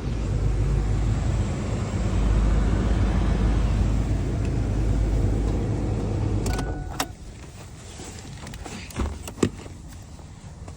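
Kia Spectra's four-cylinder engine idling after a cold start, then shut off about seven seconds in. A few sharp clicks and a key rattle follow.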